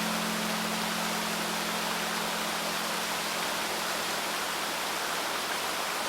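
Rushing flow of a river stream with two steady low pure tones held beneath it, the 174 Hz and 216 Hz solfeggio tones. Both tones stop near the end.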